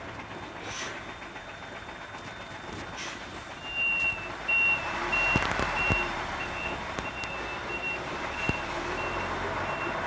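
Vehicle reversing alarm beeping about twice a second, starting a few seconds in, over the steady rumble of a truck, with two sharp knocks partway through.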